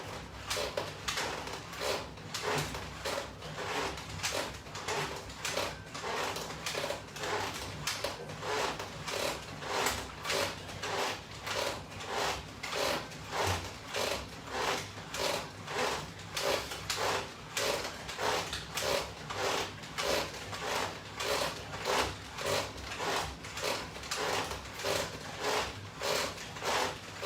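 Resistance-band exercise equipment rubbing and creaking in a steady rhythm, about one and a half strokes a second, as repetitions are worked through.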